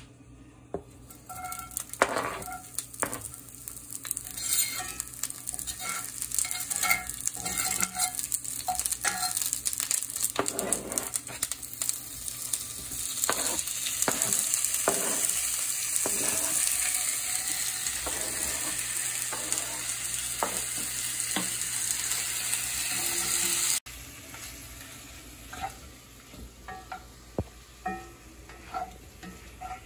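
Sliced steak and onions frying in hot oil in a cast-iron skillet: a dense sizzle with many small clicks and scrapes of a utensil against the pan. The sizzle is loudest in the middle and cuts off suddenly about 24 seconds in, leaving lighter scattered clicks.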